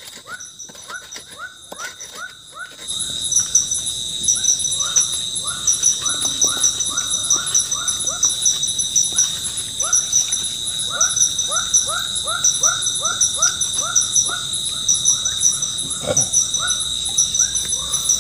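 Forest insects trilling and pulsing steadily, with a repeated chirping animal call about twice a second over them; the whole chorus gets louder about three seconds in.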